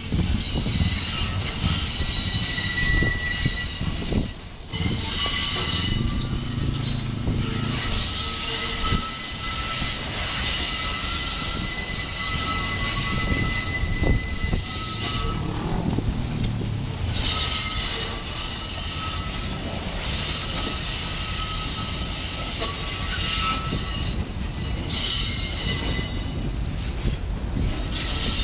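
R68-series New York City subway train moving through the yard, its steel wheels squealing in several steady high tones over a low rumble; the squeal breaks off and starts again a few times.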